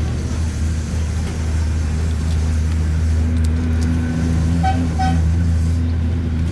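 A motor vehicle's engine running steadily with a low hum. Two short, higher tones come about four and a half and five seconds in.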